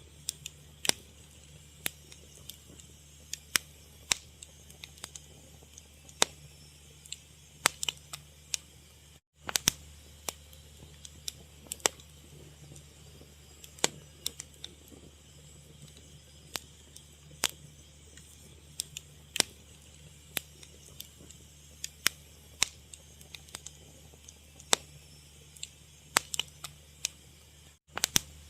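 Wood fire crackling, with irregular sharp pops and snaps over a steady low hum. The sound cuts out for an instant twice.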